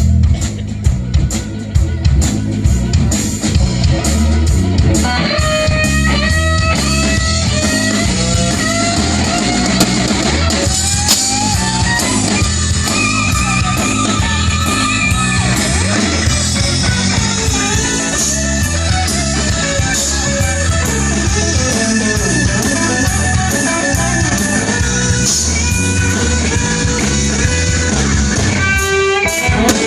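A band playing rock music: a drum kit keeping a steady beat, with guitar melody lines coming in about five seconds in.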